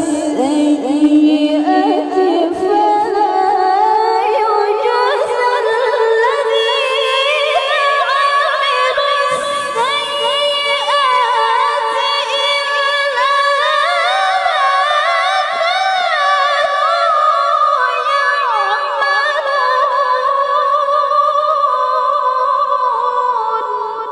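A female Qur'an reciter chanting tilawah in one long, unbroken melismatic phrase in a high, clear voice. The pitch climbs step by step through quick wavering ornaments, and the voice fades out near the end.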